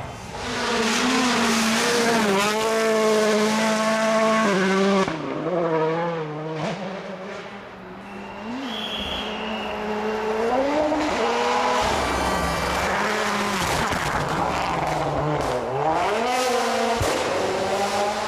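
World Rally Car's turbocharged 1.6-litre four-cylinder engine driven flat out, the revs climbing and dropping again and again through gear changes, with a few sharp cracks. The engine note falls away about five seconds in and builds back up from about ten seconds.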